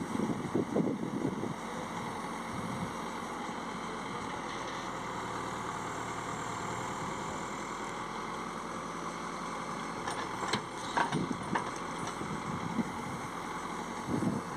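Heavy diesel machinery engines running steadily, with a few short knocks near the start and about ten to eleven seconds in.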